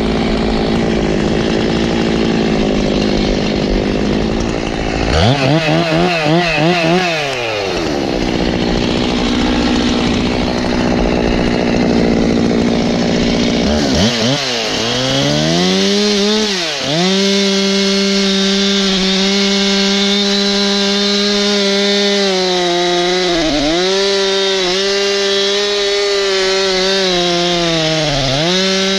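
Two-stroke chainsaw running near full throttle while cutting into a large ash tree. Its engine note dips and picks back up several times as the cut loads it.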